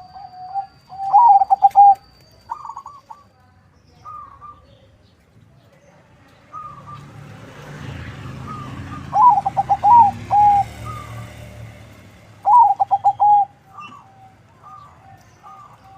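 Perkutut (zebra dove), a local × Bangkok crossbred male, cooing its rolling, trilled song in repeated phrases, the loudest about a second in and twice more in the second half, with softer coos between. A soft rushing noise swells and fades in the middle.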